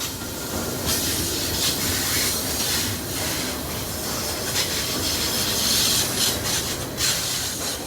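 Loud, steady diesel locomotive running under load on a long freight stack train: a low engine rumble with a strong hiss over it. This is a 4,400-horsepower helper unit at the rear of the train.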